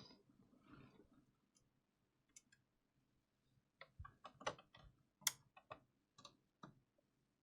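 Near silence broken by faint, irregular small clicks and taps of repair work on a PlayStation 5 at the bench, clustered in the second half, with one sharper click a little after five seconds in.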